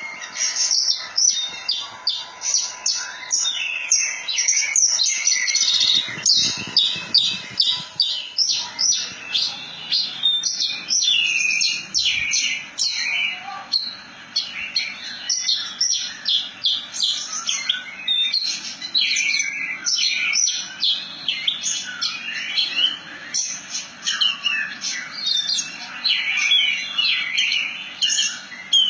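Horsfield's bush lark (branjangan) singing a long, unbroken song of rapid high chirps and trills, note after note with no pause.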